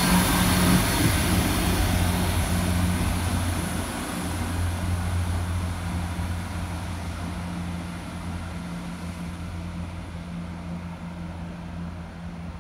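An Irish Rail ICR 22000 Class diesel multiple unit moving away down the line. Its steady diesel engine hum and wheel-on-rail noise fade gradually as it recedes.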